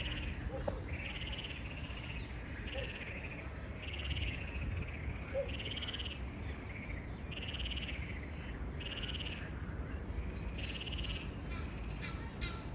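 Frogs calling at a pond: a repeated pulsed trill, each about a second long, coming every second or two. Near the end geese start honking in quick succession.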